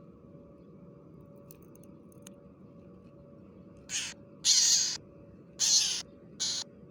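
A bird gives four harsh, loud squawks in about three seconds, starting about four seconds in, as it resists being caught by hand. Before the squawks there is only a low steady hum and a few faint ticks.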